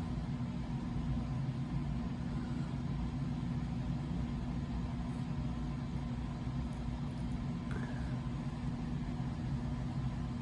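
A steady low mechanical hum, even in pitch and level, from a running motor or appliance.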